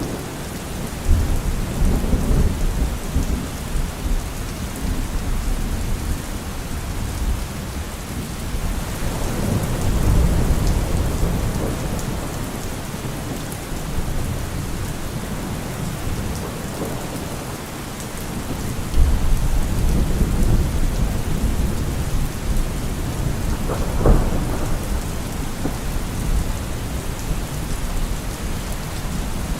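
Steady rain falling, with thunder rumbling low in several rolls and one sharper crack late on.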